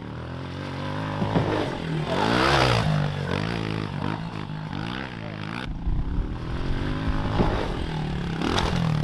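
Dirt bike engine revving up and down several times, loudest about two to three seconds in. The sound changes abruptly a little before halfway, and the engine revs again near the end.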